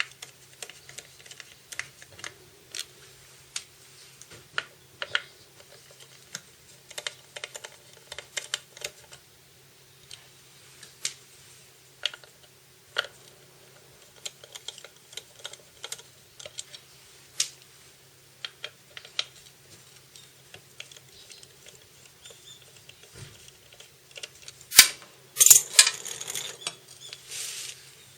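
Irregular light clicks and taps of tools and small parts being handled, with a louder clatter of knocks near the end.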